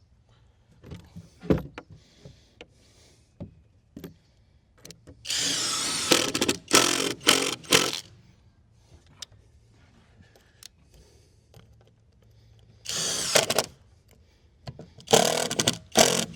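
Power drill running in stop-start bursts, pulsed on the trigger: a run of about a second from about five seconds in with short bursts after it, another brief run near thirteen seconds, and a quick series of bursts near the end. Light knocks and clicks of wood and tools come between the runs.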